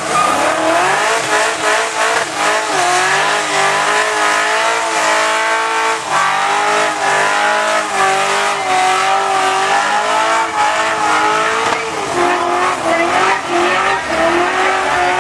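Muscle car engine revving hard during a burnout: the revs climb at the start, then hold high and waver up and down, with tyre squeal.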